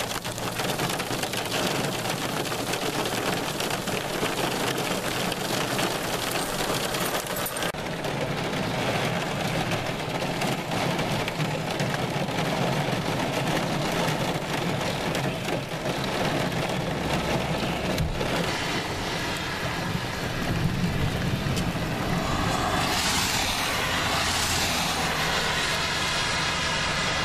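Inside a moving vehicle: steady road and wind noise, with rain pattering on the car during a thunderstorm and coming in swells near the end.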